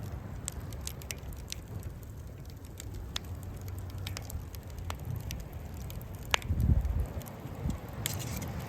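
Campfire crackling, with sharp pops of burning wood at irregular intervals over a steady low rumble. The rumble swells briefly about two-thirds of the way through.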